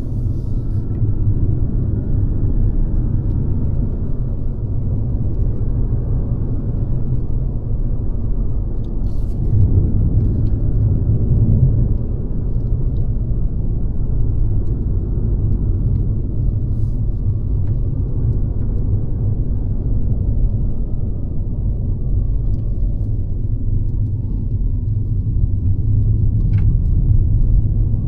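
Mercedes-Benz C-Class (W206) on the move: a steady low rumble of engine and road noise, swelling slightly about ten seconds in.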